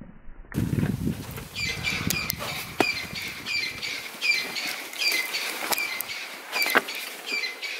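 A bird calling over and over, short high chirps about twice a second, with a few sharp clicks and a low rumble in the first second or so.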